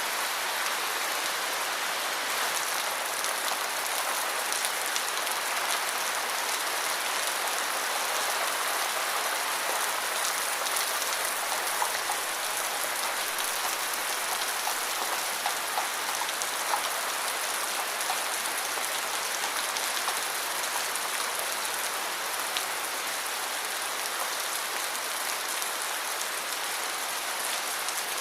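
Steady rain, an even hiss with scattered individual drops ticking on a surface.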